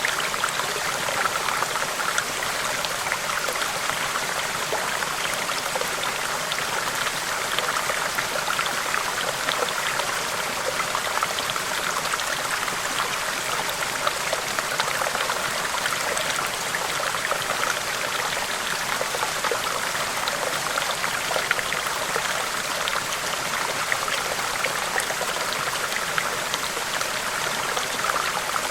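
River water rushing steadily, an unbroken dense splashing and burble with no pauses or changes.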